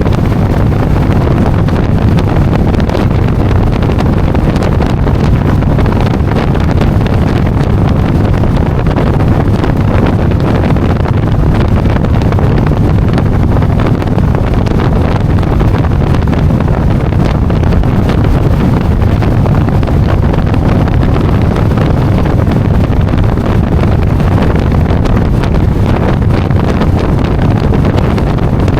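Motorcycle riding at steady speed. Heavy wind rush on the microphone covers a steady low engine hum.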